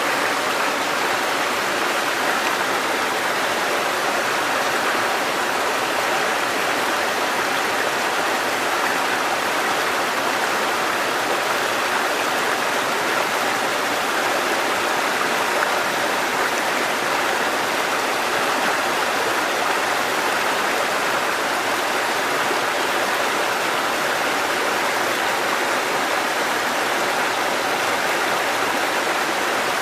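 Mountain stream water cascading over rocks: a steady, even rushing.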